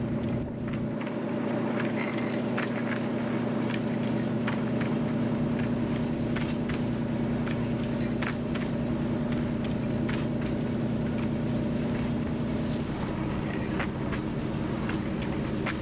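TU7 narrow-gauge diesel locomotive running under way, its engine holding a steady note, with short clicks of the wheels over the rail joints. The engine note changes about thirteen seconds in.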